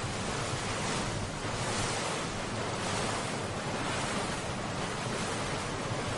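Steady rushing noise of wind and waves, swelling and easing slightly.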